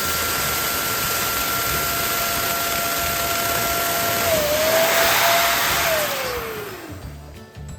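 Electric balloon inflator blowing air with a steady whine, then switched off about six seconds in, its motor winding down with a falling whine.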